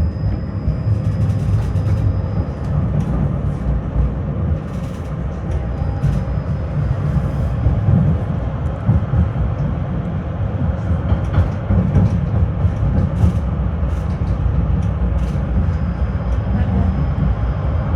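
Tram running between stops: a steady low rumble of the car and its wheels on the rails, with scattered light clicks and rattles.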